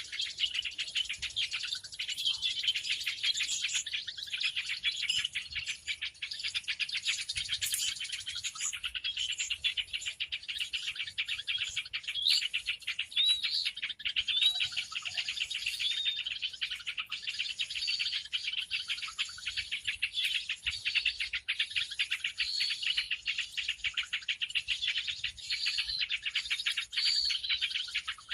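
A dense, unbroken chorus of many small birds chattering and chirping rapidly, with short clear whistled notes now and then from about halfway through: a 'burung ribut' (noisy birds) lure recording made to draw other birds in.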